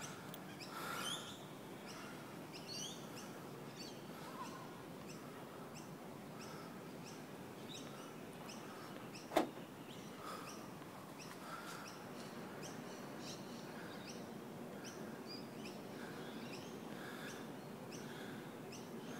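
Birds chirping over and over, short high calls scattered through, over a steady low background hum. One sharp click about halfway through.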